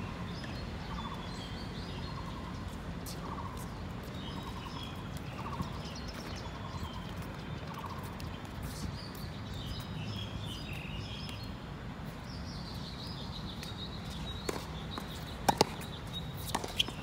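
Bird calls, a short buzzy note repeated about every 0.7 s along with higher chirps, over a steady low rumble. Several sharp knocks come near the end.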